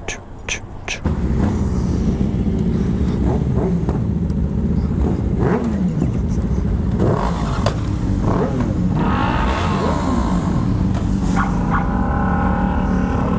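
Motorcycle at speed: wind rushing over the camera microphone comes in suddenly about a second in, over the 2006 Honda CBR600RR's inline-four engine, whose pitch slides up and down a few times as it revs.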